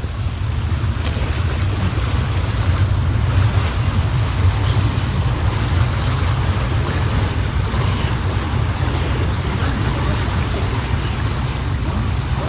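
Steady low rumble of an excursion boat under way, with water rushing along the hull and wind.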